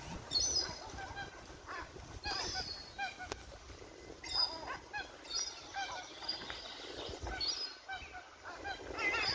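Birds calling: groups of short calls that arch up and down in pitch, repeated every half second or so, with higher, thinner chirps among them.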